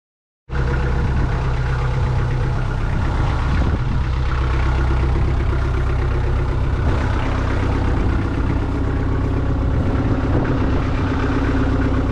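Kubota L48 tractor loader backhoe's diesel engine idling steadily, cutting in suddenly about half a second in.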